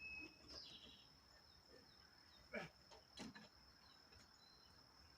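Near silence: faint background with a steady high-pitched tone, broken by two faint short sounds about halfway through.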